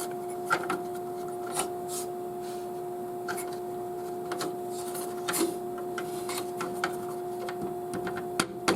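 Scattered light clicks and rubbing as a CPU cooler bracket mounting pin is handled and pushed into place, over a steady hum.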